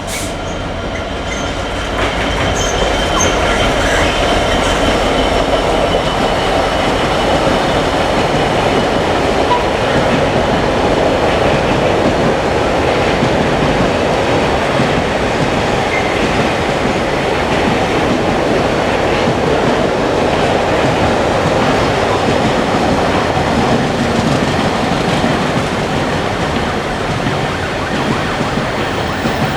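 Freight train hauled by a Class 66 diesel locomotive passing at speed: a long rake of container wagons rolling by with a steady rumble of wheels on rail, growing louder about two seconds in and then holding even.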